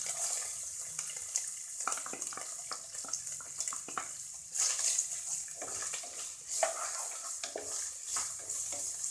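Chopped onion, ginger and garlic sizzling in hot oil in a pan over a high flame, with short scraping knocks as they are stirred. The sizzle surges louder a few times.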